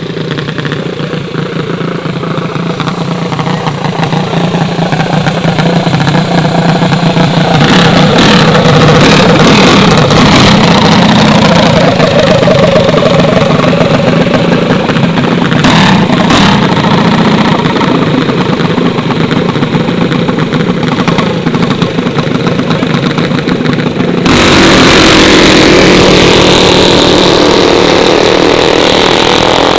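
Mini bike engines running loud at race speed, revving with pitch rising and falling. The sound changes abruptly about three-quarters of the way through.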